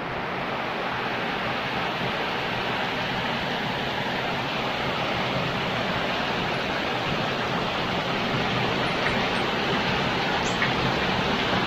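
Heavy rain falling steadily, a dense even hiss that grows slowly louder.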